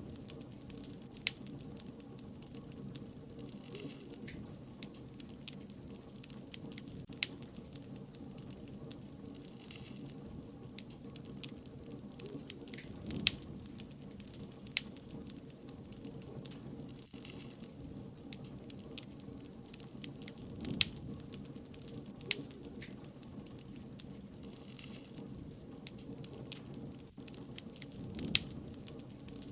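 Burning wood bonfire crackling: a steady low noise of the flames with frequent sharp pops and snaps at irregular intervals, a handful of them much louder than the rest.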